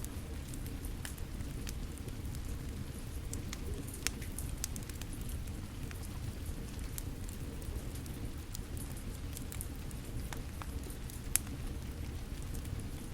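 Steady rain with a wood fire crackling over it: scattered sharp pops and snaps, two of them louder, about four seconds in and near the end.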